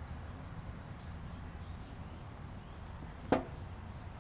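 A single sharp metal click about three seconds in, with a brief ring, as a part of a clutch master cylinder is knocked or set down during disassembly, over a low steady background.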